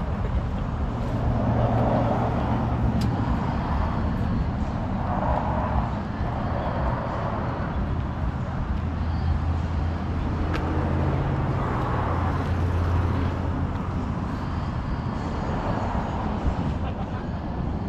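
A car engine running at a steady idle, a low hum that is strongest around the middle, under people talking in the background.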